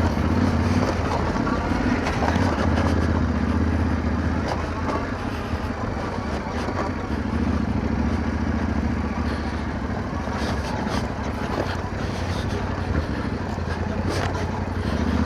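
Yamaha Ténéré 700's parallel-twin engine running steadily at low revs, the level rising and falling a little, with a few sharp clicks.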